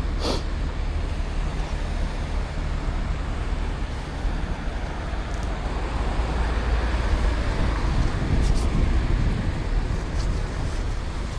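Road traffic heard from a bicycle on a city street, with a heavy low wind rumble on the microphone. A passing vehicle swells louder past the middle. A brief sharp sound comes right at the start, and there are a few faint ticks later.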